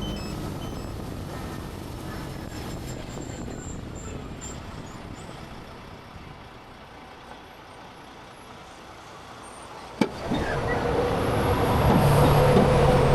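Truck engine heard from inside the cab, getting gradually quieter as the truck slows. About ten seconds in there is a sharp click, and the sound jumps to louder engine and road noise.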